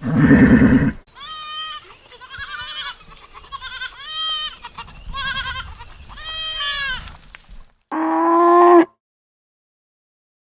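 Recorded animal calls: a loud, low call in the first second, then a run of about six short, high-pitched cries that rise and fall in pitch, and a lower single call near the end.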